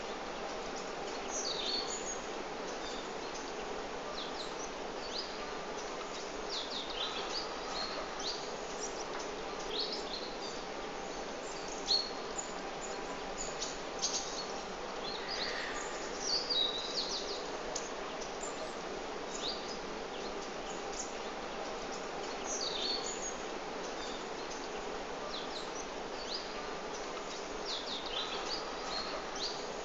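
Small birds chirping in short, quick calls scattered throughout, over a steady background hum.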